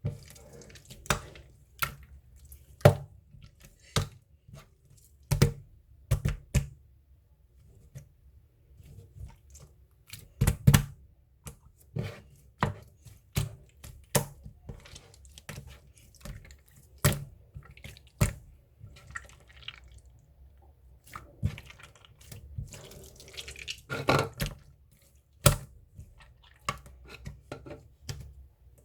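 Slime being squeezed and poked by hand, making irregular sharp wet pops and clicks, roughly one or two a second, with soft squishing between them.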